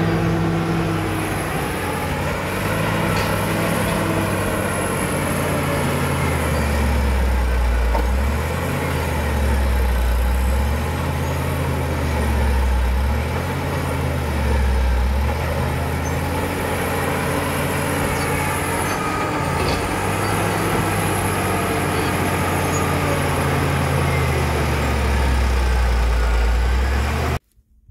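Caterpillar D7 bulldozer's diesel engine working under load, its pitch dipping and recovering every couple of seconds, with a faint high whine rising and falling along with it. It cuts off suddenly near the end.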